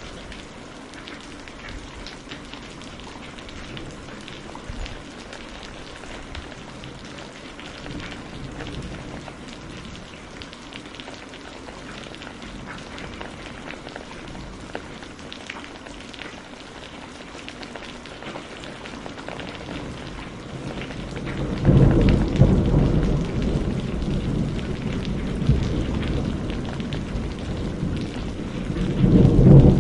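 Steady rain falling, with scattered small ticks of drops. About two-thirds of the way in, loud low thunder breaks in and rumbles on, and a second thunderclap comes near the end.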